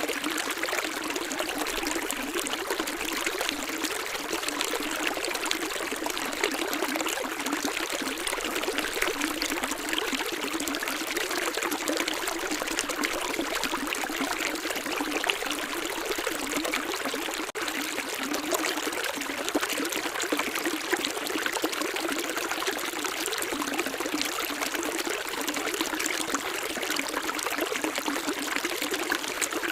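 Running water trickling and splashing steadily, like a small stream flowing over stones, with no low rumble.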